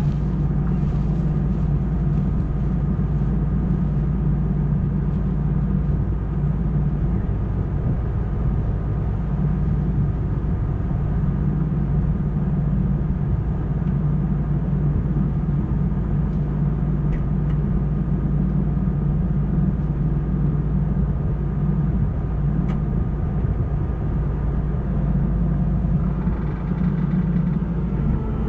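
Harvest machinery running steadily: a loud, constant engine drone with a strong low hum and no change in speed.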